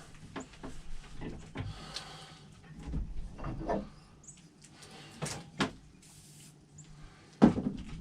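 Handling noises while a restored axe head is oiled with WD-40: scattered knocks and clicks, a brief hiss about two seconds in and another short one around six seconds, and a louder knock near the end.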